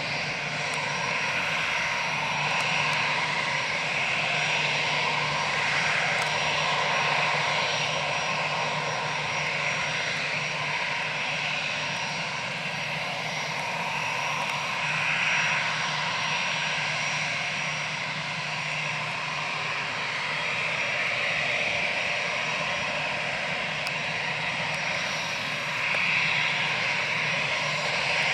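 Airbus A320's CFM56 turbofan engines running steadily, a continuous jet rush with a low steady hum that swells and eases slowly.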